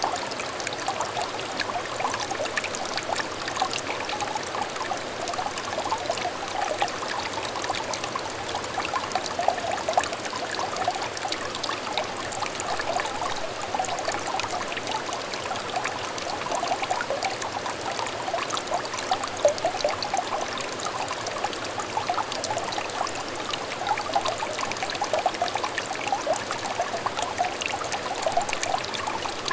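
Small stream of water trickling and burbling over stones, a steady stream of small splashes and gurgles.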